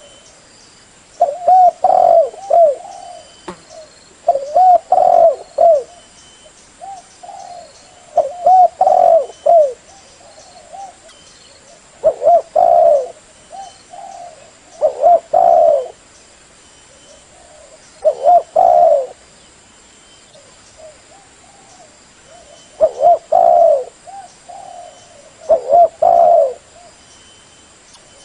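Female spotted dove cooing: short phrases of several low, rounded coo notes, repeated about every three seconds.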